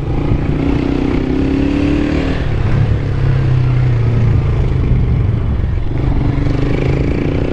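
Honda CG 160 Fan's single-cylinder engine running at a steady cruising speed while ridden, with wind and road noise over the microphone.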